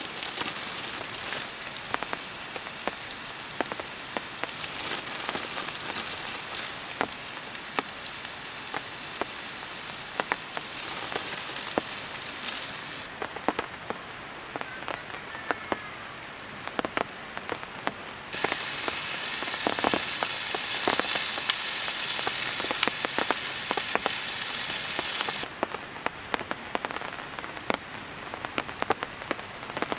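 Food sizzling in a hot pan over a campfire: a steady spitting hiss full of sharp pops and crackles. It drops and rises abruptly several times and is loudest a little past the middle.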